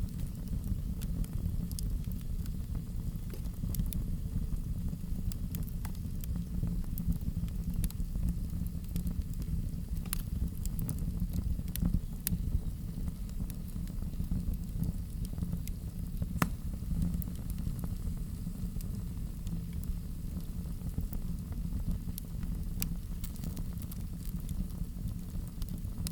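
Fireplace fire crackling: scattered sharp pops and snaps, a few louder than the rest, over a steady low rumble of the flames.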